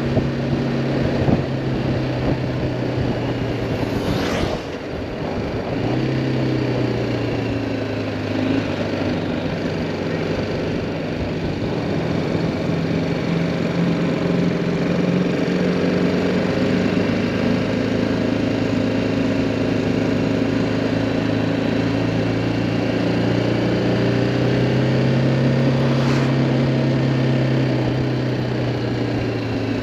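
The single-cylinder engine of a BMW G310R motorcycle running at low, steady revs in traffic. The engine note dips and changes pitch briefly about four to five seconds in, then holds steady again.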